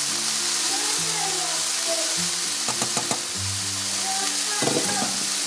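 Chicken pieces and sliced hot dog frying in oil in a pan, a steady sizzle, over background music, with a few light clicks about three seconds in.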